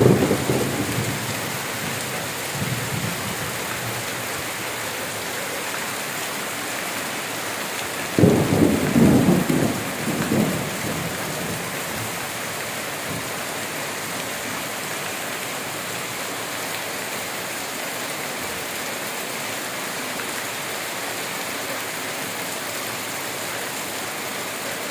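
Steady downpour of rain hissing throughout. Thunder rumbles right at the start, and a louder peal comes about eight seconds in, lasting a couple of seconds.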